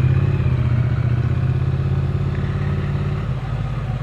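Triumph Speed Twin 900's 900 cc parallel-twin engine running steadily at low speed, easing off slightly about three seconds in.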